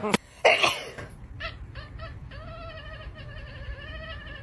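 A cat yowling: a few short cries, then from about two and a half seconds in one long drawn-out, slightly wavering yowl. A short loud sound comes about half a second in.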